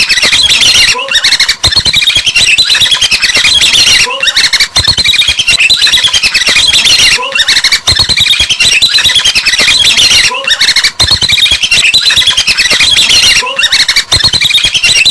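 Loud, dense chirping and squawking of birds, the same pattern repeating about every three seconds like a looped recording.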